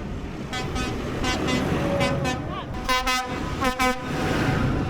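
Vehicle horns tooting in a string of short blasts, the two loudest and longest about three and four seconds in, over the low rumble of passing tractor and truck engines.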